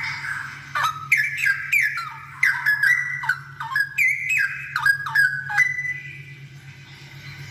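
Straw-headed bulbul singing: a quick run of loud, liquid whistled notes, each sliding down in pitch, for about five seconds before it stops. A low steady hum runs underneath.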